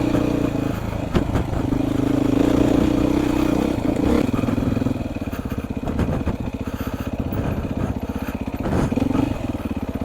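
Beta 430 RR four-stroke single-cylinder dirt bike engine running. The note holds steady for about four seconds, then drops to a slower, lumpy chug with separate firing beats that you can hear one by one.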